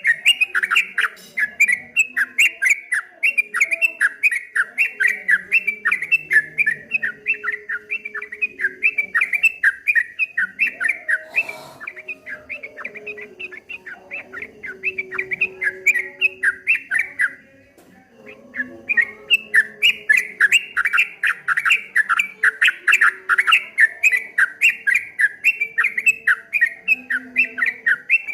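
Yellow-vented bulbul (trucukan) singing a fast, continuous run of repeated chattering notes, the 'ropel' rolling song. The song softens for a few seconds in the middle, breaks off briefly, then comes back loud.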